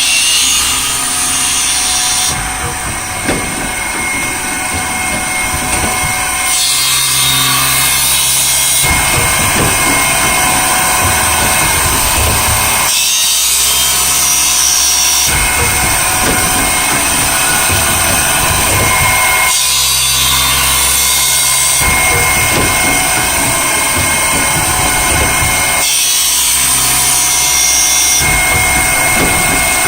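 A Vollmer saw top grinder grinding the teeth of a 26-inch alternate-bevel saw blade, with a steady high whine from the grinding wheel. The sound changes in a regular cycle about every six and a half seconds as the machine works the blade tooth by tooth.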